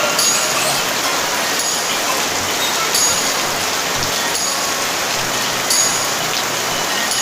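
Heavy rain falling with a steady hiss, with a few sharper splashes or knocks about three times.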